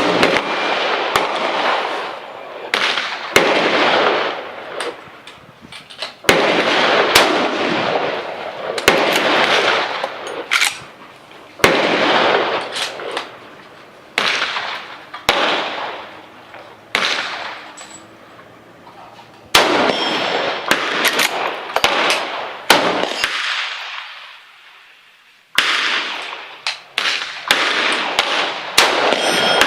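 Rifle shots at an outdoor range: about a dozen loud shots, every two to three seconds, each trailing off in a long echo, with fainter sharp cracks from other shots between them. The firing pauses briefly about three-quarters of the way through.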